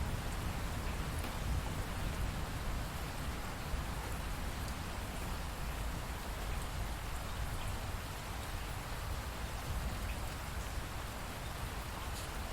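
Steady rain falling, with a low rumble underneath and scattered faint drop ticks.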